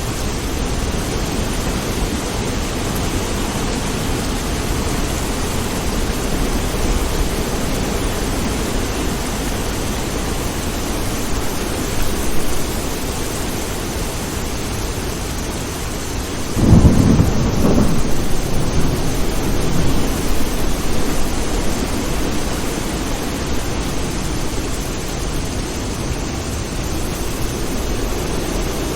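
Steady heavy rain, with a sudden clap of thunder a little past the middle that rumbles on for a few seconds before fading back into the rain.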